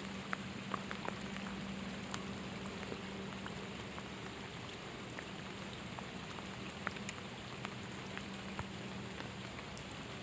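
Steady rain falling, with scattered sharp raindrop taps through the hiss. A faint steady low hum runs underneath and fades out near the end.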